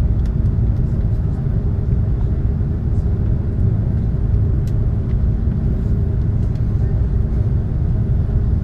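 Steady low rumble of airliner cabin noise inside an Airbus A330 taxiing on the ground, with a faint steady hum and a few light clicks.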